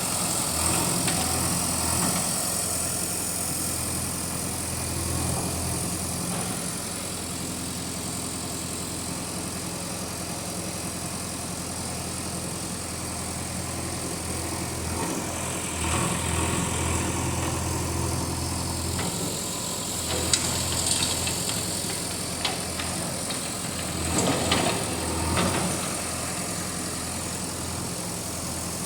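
Diesel engine of a JCB 3DX backhoe loader running steadily, its note swelling louder twice as it works under load, with a few sharp knocks in between.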